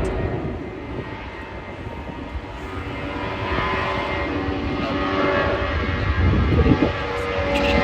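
Jet airliner engines: a low rumble that grows louder, with several steady whining tones coming in about halfway through.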